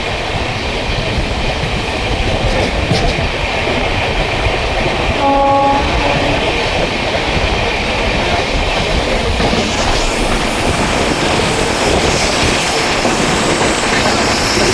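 Electric-locomotive-hauled express train running on the track, wheels clattering over rail joints, with a short horn blast about five seconds in.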